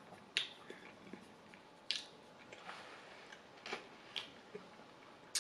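Quiet mouth sounds of someone eating a mini pie: soft chewing with about five short, sharp clicks spread through.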